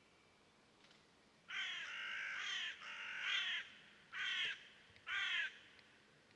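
A bird giving four harsh, raspy calls starting about a second and a half in: two longer calls, then two short ones.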